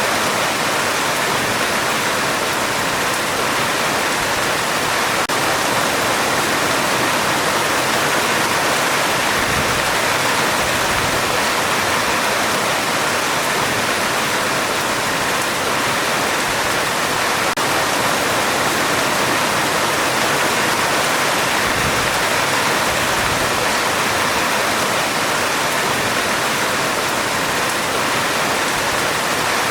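Heavy rain falling steadily on a metal roof: a dense, even hiss with no break or change.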